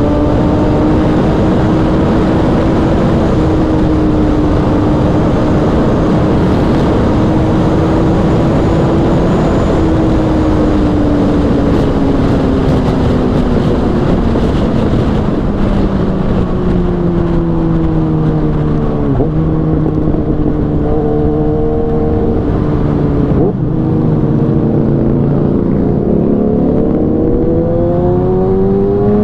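Kawasaki sport bike's inline-four engine running at high revs over a steady rush of wind noise. The engine note holds steady, then falls for several seconds as the bike slows, breaks briefly twice around the twenty-second mark as if changing gear, and rises again near the end as it accelerates.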